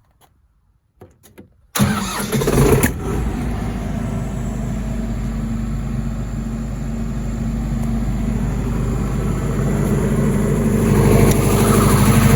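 John Deere diesel engine of an SDMO 60 kVA generator set starting: a few clicks, then it fires abruptly about two seconds in with a loud burst and settles into a steady run, growing louder near the end.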